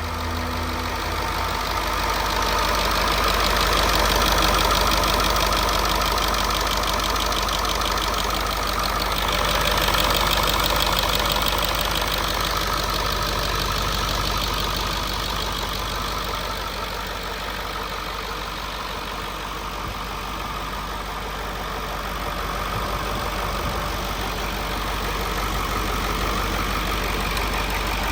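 A 2000 International T444E 7.3-litre V8 turbo-diesel engine idling steadily.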